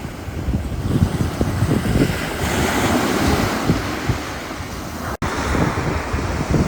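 Strong wind buffeting the microphone over ocean surf breaking on the beach, in uneven gusts. The sound cuts out for an instant about five seconds in.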